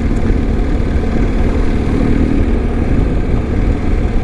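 BMW R1250 motorcycle's boxer-twin engine running steadily on the move, under a loud, even rumble of wind and road noise.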